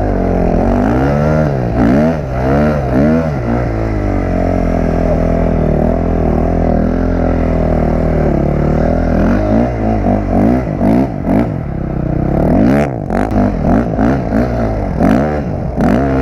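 Dirt bike engine being ridden, its pitch rising and falling with repeated throttle blips and gear changes, holding steadier for a few seconds in the middle, then revving up and down quickly again in the later part.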